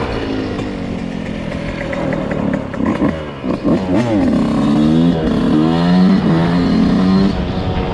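Dirt bike engine running, then revving up and dropping back several times in quick succession from about three seconds in, like shifting through the gears, louder toward the end.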